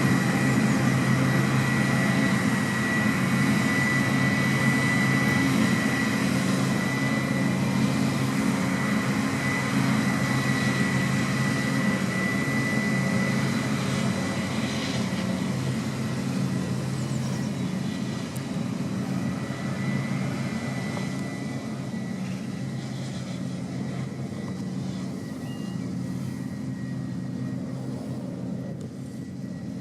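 Heavy farm machinery engine running steadily under a constant drone, with a steady high whine on top, growing gradually quieter through the second half.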